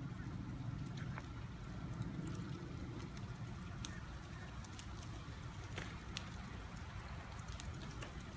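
Wet snow and meltwater dropping from trees, landing as scattered sharp ticks and drips over a steady low rumble.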